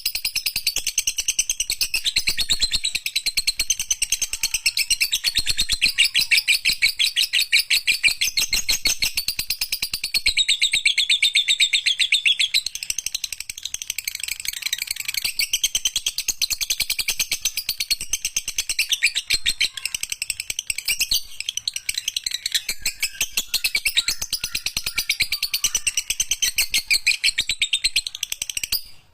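Lovebird singing an unbroken, very rapid chattering trill, the long 'ngekek panjang' chatter, high-pitched and continuous with a brief break near the end.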